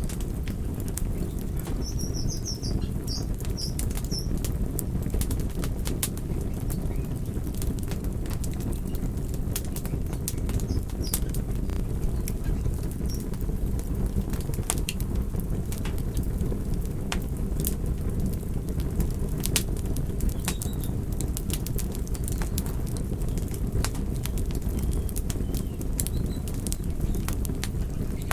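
Campfire burning: a steady low rumble of flames with frequent sharp crackles and pops from the burning wood. A few faint high chirps come about two to four seconds in.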